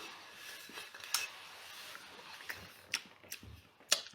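A few separate sharp clicks and knocks of dishes and utensils being handled, over a faint steady hiss.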